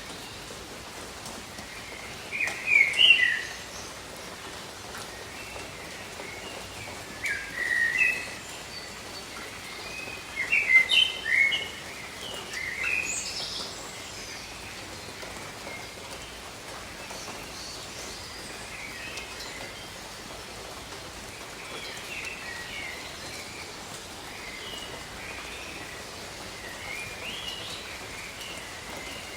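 Steady rain hiss with birds calling over it: short chirping, sliding phrases, a few loud ones in the first half and fainter calls later on.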